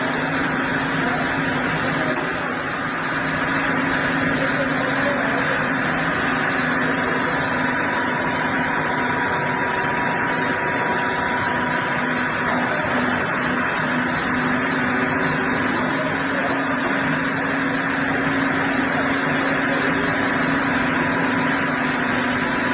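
Large chainsaw running steadily under load during a long milling cut, with a brief dip in level about two seconds in.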